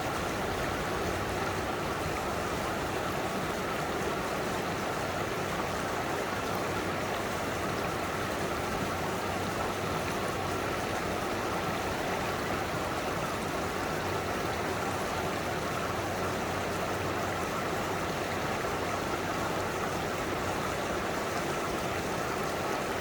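Mountain stream flowing close by: a steady, unbroken rush and babble of water.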